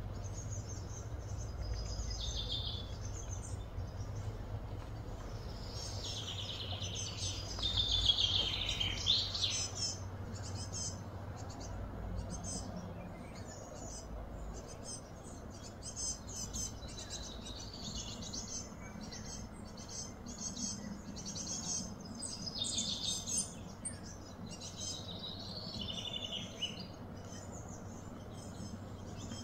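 Wild birds chirping and calling over and over, with quick sweeping notes that are loudest about a third of the way in, over a low steady background rumble.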